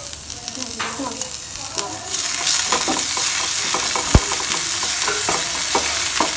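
Sliced onions, garlic, green chilli and cumin seeds sizzling in oil in a non-stick frying pan while a wooden spatula stirs and scrapes them. The sizzle gets louder about two seconds in, and there is one sharp knock of the spatula against the pan about four seconds in.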